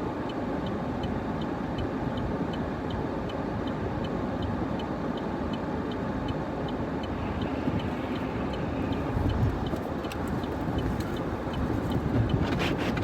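Steady road and engine noise inside a truck cabin while driving on a snowy road, with faint regular ticking about twice a second and a short swish near the end.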